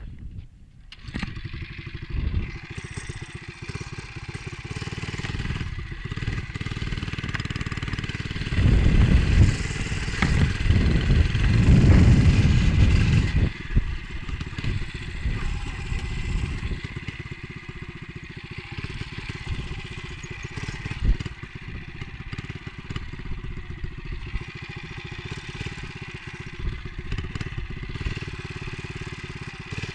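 Motovox MBX11 minibike's small four-stroke engine running while riding, with heavy wind rumble on the microphone that swells loudest for a few seconds in the middle.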